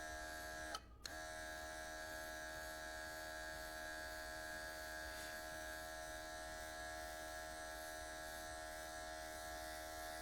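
Small cordless airbrush compressor running steadily with an even, pitched hum. It cuts out briefly about a second in, then runs on.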